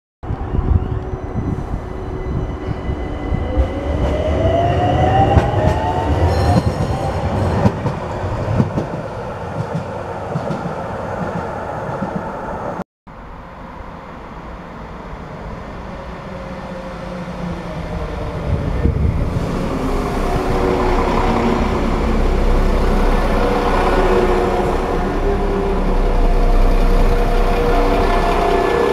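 Passenger trains running in along a station platform, with wheels rumbling on the rails. In the first part a whine rises in pitch. After a short break in the sound, a London Midland multiple unit draws up beside the platform with a building rumble and several steady humming tones.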